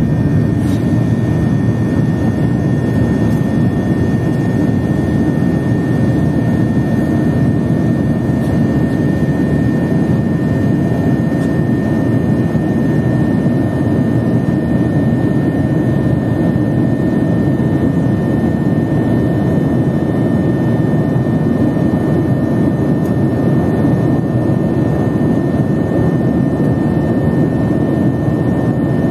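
Steady cabin noise of a jet airliner in flight: an even, unchanging engine and airflow rush with a faint high steady whine.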